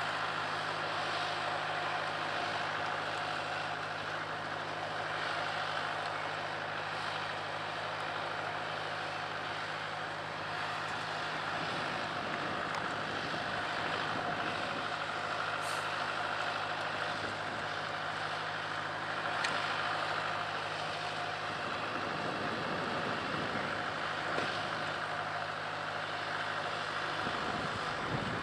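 Steady rolling noise of a steam-hauled charter train's coaches running away along the track. A low steady hum underneath stops about two-thirds of the way through.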